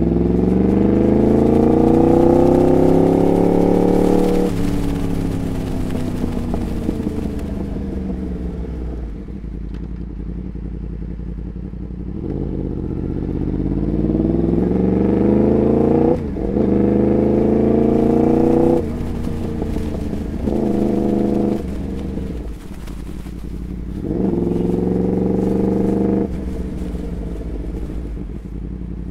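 Motorcycle with a Graves aftermarket exhaust, its engine revving up in about five pulls. The note climbs over a few seconds in the first and second pulls and more briefly in the later ones, and each pull ends in a sudden drop.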